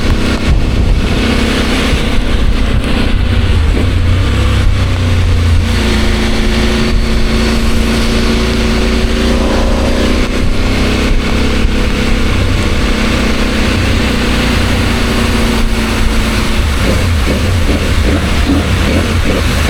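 CFMOTO 800MT motorcycle's parallel-twin engine running under way, its pitch holding steady for stretches and shifting up and down a few times, turning ragged near the end, over a steady rushing noise.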